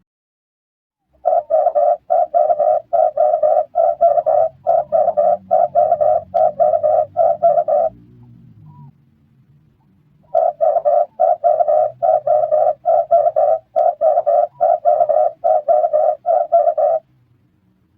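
Red turtle dove cooing: a rapid run of about three short, evenly repeated coos a second, then a pause of about two seconds and a second run of about seven seconds.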